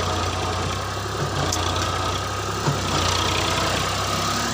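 Massey Ferguson tractor's direct-injection diesel engine running steadily, a constant low drone with a few faint ticks.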